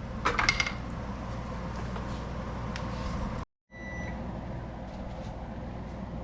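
A few quick clicks, then a steady low kitchen hum; after a brief dropout, a single short electronic beep.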